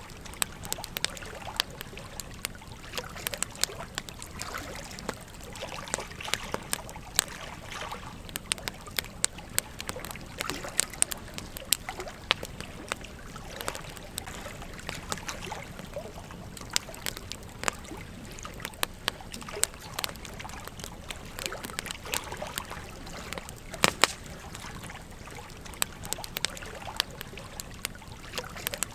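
Campfire crackling and popping in sharp, irregular snaps over the steady trickle of a gently flowing stream.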